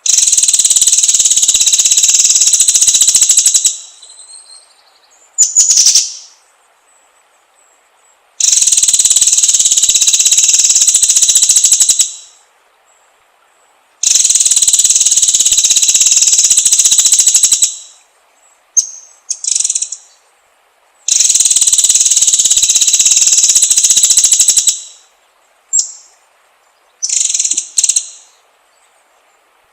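A songbird's recorded song: four long, very rapid, high-pitched trills of about three and a half seconds each, separated by gaps with short sharp chirps.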